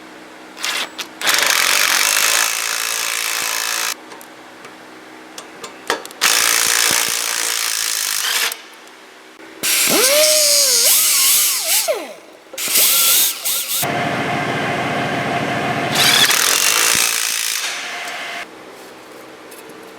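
A handheld power tool run in about six bursts of one to two and a half seconds each, the motor's pitch sliding up and down as the trigger is eased in the middle bursts.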